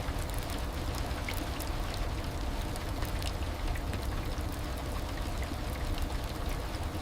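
Heavy rain falling steadily: a dense even hiss with many distinct drop ticks and a low rumble underneath.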